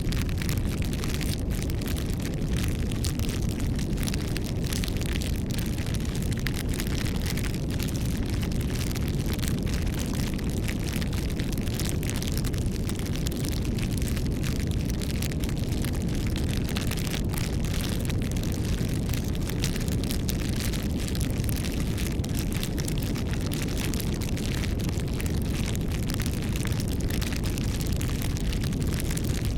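Wood fire burning steadily: a continuous low rumble with dense, irregular crackling and popping.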